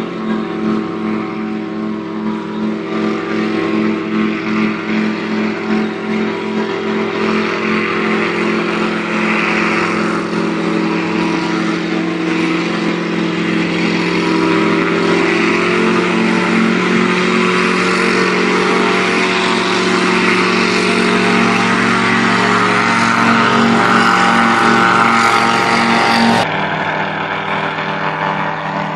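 Butterfly Aurora gyroplane's engine and propeller running steadily, growing slowly louder. About 26 seconds in the sound changes abruptly to a quieter, different engine note.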